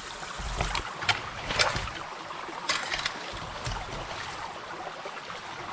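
Creek water running through a dam of leaves and branches, with several short sharp splashes in the first few seconds and some low wind rumble on the microphone.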